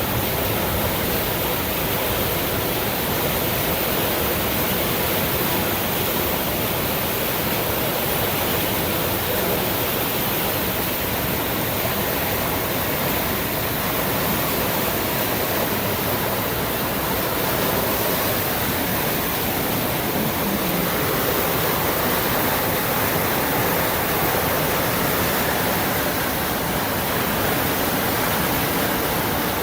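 The Little Pigeon River in flood, a steady loud rush of fast, high whitewater after hours of rain.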